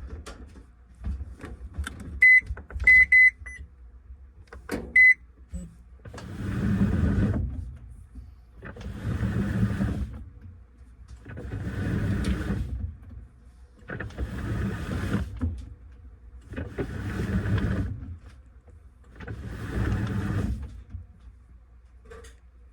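Washing machine control panel beeping several times in short high tones, then the washer's motor turning the load in six short whirring spells about every three seconds, at the start of a wash cycle.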